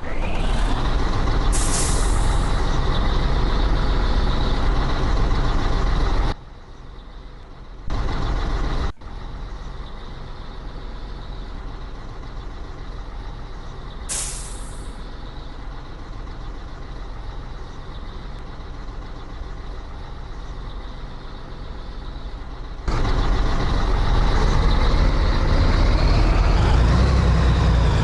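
Scania 113H truck's diesel engine running, with the level jumping abruptly several times. Two short, sharp air-brake hisses come about two seconds in and again about fourteen seconds in. Near the end the engine note rises and then falls.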